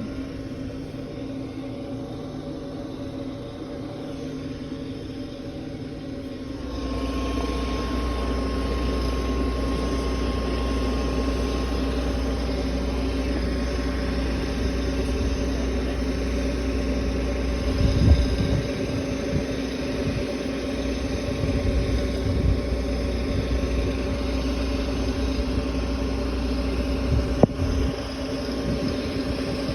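Combine harvester's diesel engine running steadily, growing louder and deeper about six and a half seconds in. A heavy clunk comes about halfway through and a sharp knock near the end, as the header is fitted.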